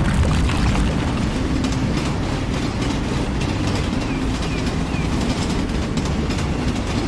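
Heavy machinery running with a steady, dense rumble.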